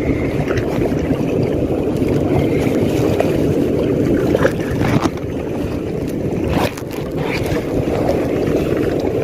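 Steady wind rumbling on the microphone at sea, with water moving around and a few brief knocks or splashes near the middle.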